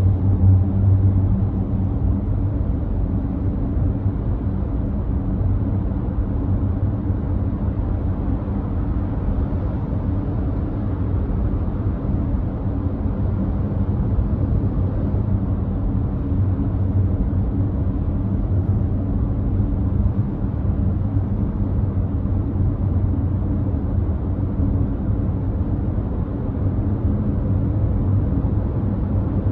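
Nissan Note e-POWER driving at a constant speed on a wet expressway: a steady low rumble of road and tyre noise that does not change over the half-minute.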